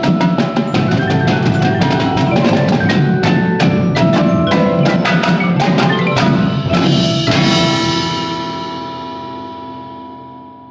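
Music with fast, rhythmic struck notes from drums and ringing mallet percussion or bells, ending about seven seconds in on a final struck chord that rings on and slowly fades away.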